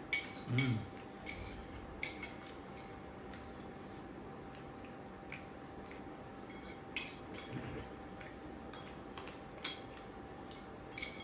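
Scattered light clinks and taps of cutlery against plates while eating, a few a second at irregular intervals, over a faint steady hum. A brief vocal sound about half a second in.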